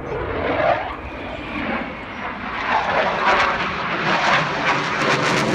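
Eurofighter Typhoon's twin Eurojet EJ200 jet engines heard as the fighter flies its display. The jet noise grows louder about halfway through and turns crackly.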